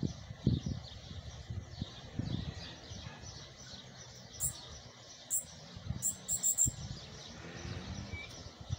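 Cuban bullfinch (negrito) singing short, very high, thin notes: two single notes about four and five seconds in, then a quick run of four. Low rumbling noise and a few low thumps run underneath.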